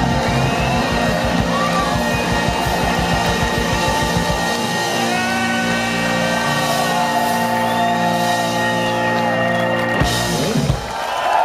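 Live blues-rock band playing: electric guitar bending notes over drums and bass, the drums pounding fast for the first few seconds before the band settles into held chords under the guitar bends. A final hit comes about ten seconds in as the song ends.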